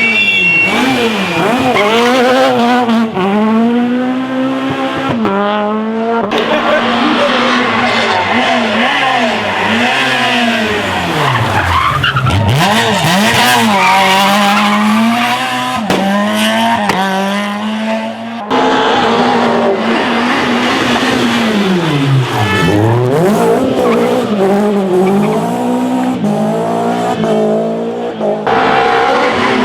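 Rally car engines at hard throttle, revving up through the gears and dropping back repeatedly, with bursts of tyre squeal. The sound changes abruptly a few times.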